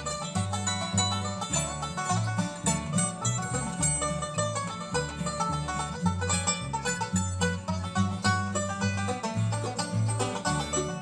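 Live bluegrass band playing an instrumental passage: rapid picked banjo notes over guitar and a steady walking bass line.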